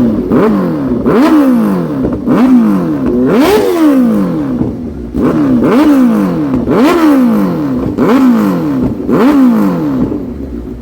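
Motorcycle engine revved over and over, the throttle blipped about once a second, each rev climbing quickly and then falling back.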